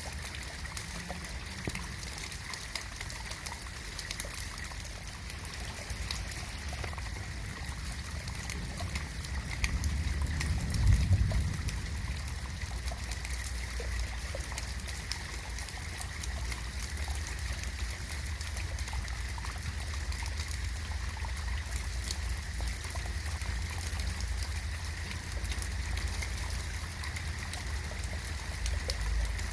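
Steady rain falling, with many fine drips and trickling water. A low rumble swells briefly about ten seconds in.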